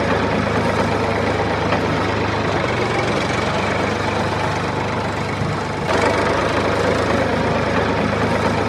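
A motor running steadily with a dense mechanical drone. It dips briefly, then picks up again suddenly about six seconds in.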